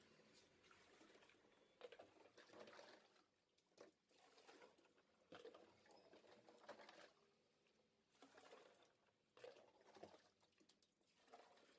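Faint, irregular patter and splashing of water, in short uneven bursts, as ice is washed out of a freezer to defrost it.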